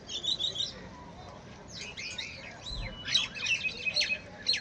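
Several birds chirping and calling in quick, overlapping high notes and short sliding whistles, busiest in the second half.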